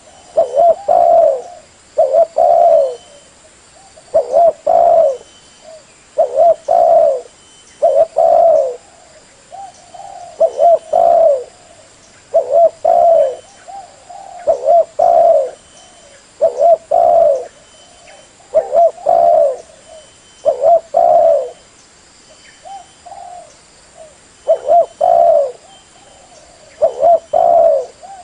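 Spotted dove cooing: a short coo phrase repeated about every two seconds, a call that can lure other spotted doves.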